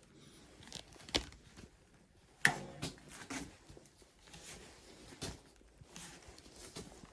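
Handling noises in a small room: a few sharp knocks, the loudest about two and a half seconds in, with quieter rustling and tearing between them.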